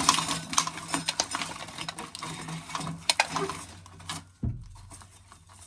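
Dry corn kernels being shelled by hand and rattling into a can: a dense, irregular run of small clicks and rattles for about four seconds, then a single dull thump.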